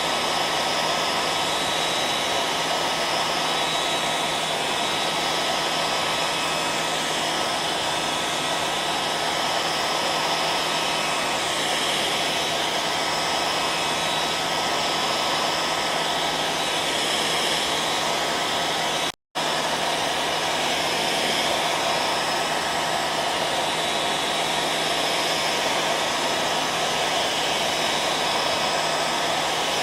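Hair dryer running steadily: an even, full blowing noise with a faint steady hum underneath. It cuts out for an instant about two-thirds of the way through, then carries on unchanged.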